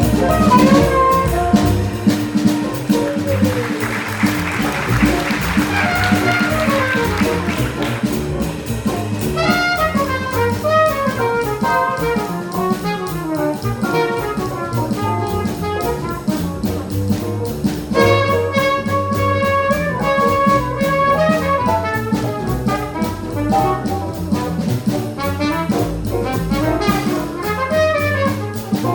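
Small jazz combo playing live, a horn playing quick runs of notes over walking bass, piano and drums with steady cymbal strokes.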